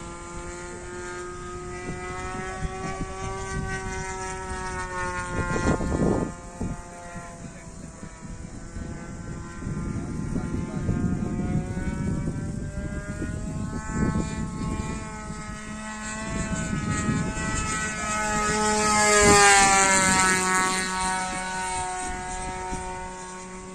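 DLE 20cc single-cylinder two-stroke petrol engine of a radio-controlled Zero warbird model in flight, its pitch drifting up and down as the plane turns and passes, loudest in a close pass near the end. Wind buffets the microphone a couple of times.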